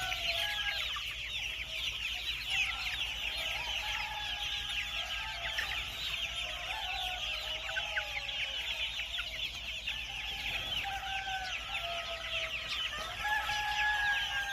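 A flock of white silkie chickens clucking, with drawn-out calls over a constant dense high chirping.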